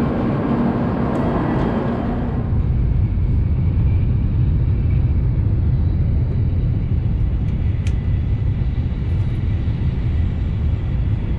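Steady low rumble of a Shinkansen bullet train running at speed, heard from inside the passenger cabin. For about the first two seconds a busier, fuller sound sits over the rumble before it settles.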